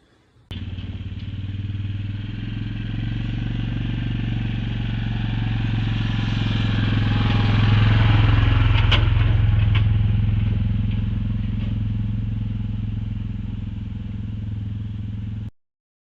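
Yamaha Kodiak 450 ATV's single-cylinder engine running while under way: a steady low engine note that swells to its loudest about halfway through and then eases, with a few sharp clicks near the middle. It starts abruptly and cuts off abruptly.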